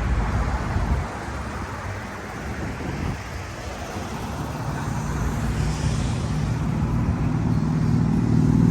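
Street traffic of passing cars. A car engine's low rumble builds from about halfway through and grows louder toward the end as it draws near.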